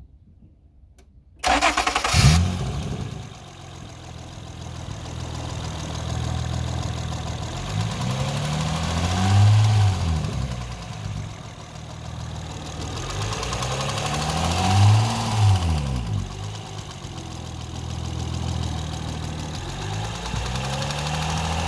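2008 Honda Accord's 3.5-litre V6 started about a second and a half in, flaring briefly before settling to idle. It is then revved up and back down three times, a few seconds apart.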